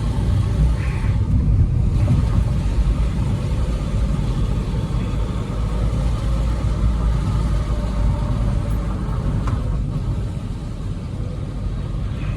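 Volkswagen Vento's TDI diesel engine running steadily while driving, under a low road rumble and tyre noise on a wet road, heard from inside the car with the windows partly down.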